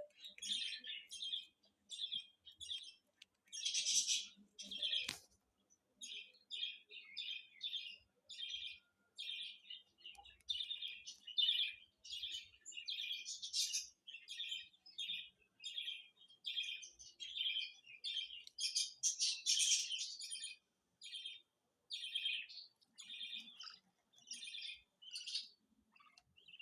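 Budgerigar chicks chirping: a steady run of short, high calls, about two a second, with louder, denser flurries now and then.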